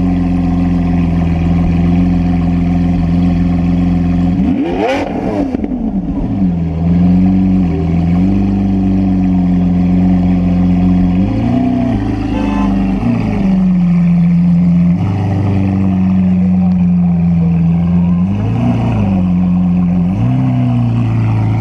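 Lamborghini Aventador S's naturally aspirated 6.5-litre V12 idling, revved hard once about five seconds in, the pitch climbing steeply and falling back. A few shorter throttle blips follow.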